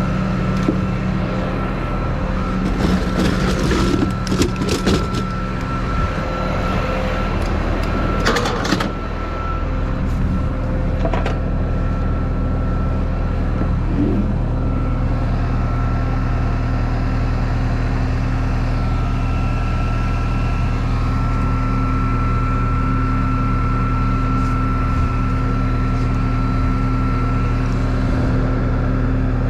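Tow truck engine idling steadily, with a run of knocks and rattles in the first nine seconds and single knocks about eleven and fourteen seconds in.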